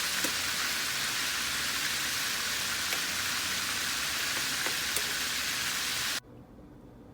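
Flour-coated chicken wings deep-frying in hot oil: a steady sizzling hiss with scattered crackles and pops, cutting off suddenly about six seconds in.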